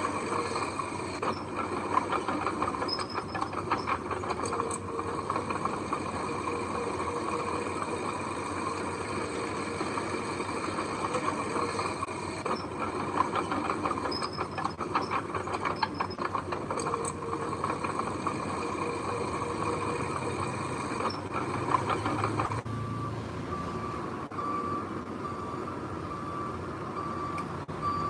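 Heavy earth-moving machinery running, with a steady engine sound and bursts of metallic clattering. Near the end the engine sound changes and a truck's reversing alarm starts beeping steadily.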